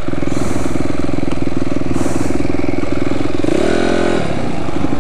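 Dirt bike engine running steadily under way, with a brief rev, a short rise and fall in pitch, about three and a half seconds in.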